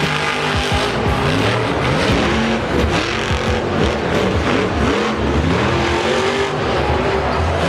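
Monster truck engines revving hard, their pitch rising and falling again and again.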